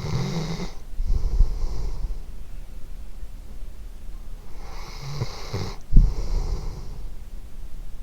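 Sleeping dog snoring close to the microphone: two slow breaths, each a low buzzing snore on the in-breath followed by a puffing out-breath. The second out-breath, about six seconds in, starts with a sharp, loud puff.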